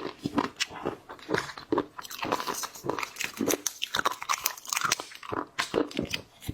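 Someone biting and chewing shell-on seafood, with many irregular sharp crunches and crackles.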